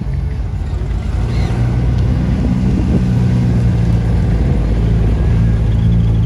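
A car engine running at low revs with a steady low hum, growing a little louder over the first couple of seconds.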